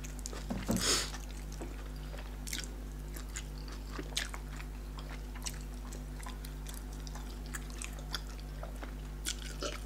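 Close-up eating sounds: scattered soft chewing and small wet mouth clicks from people eating fufu and pepper soup, with a slightly louder burst about a second in, over a steady low hum.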